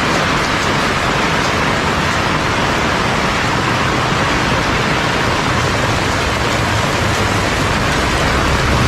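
Heavy rain pouring down in a steady, dense hiss. Near the end a low rumble begins to build underneath.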